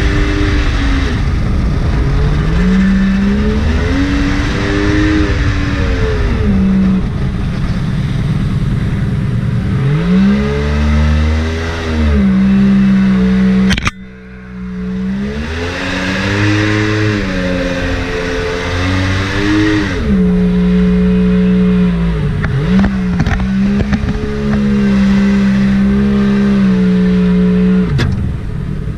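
Mini jet boat's Yamaha 1100 watercraft engine running hard, its pitch rising and falling as the throttle is worked up and down. The sound drops away sharply for a moment about halfway through, then the revving picks up again.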